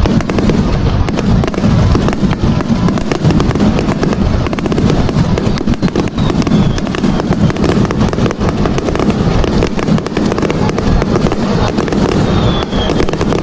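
Fireworks finale barrage: a dense, unbroken run of rapid bangs and crackles from many shells bursting at once.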